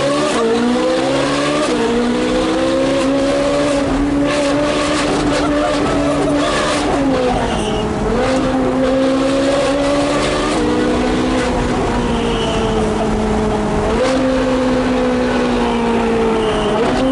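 Ferrari 458 Speciale's V8 with straight-piped exhaust at full throttle. Its note climbs off the launch, then holds high with several quick pitch steps as the gears change.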